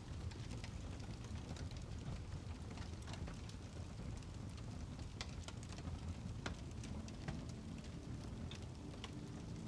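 Fireplace ambience: a wood fire crackling, with a low steady rumble and irregular sharp pops and snaps.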